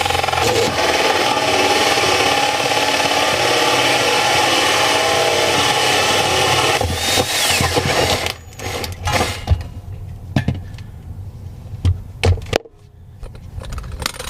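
Power drill with a 1 3/8-inch hole saw running steadily, cutting a through-hull drain hole in a boat's hull near the waterline, then stopping about eight seconds in. After it stops come scattered knocks and clatter as the drill is handled.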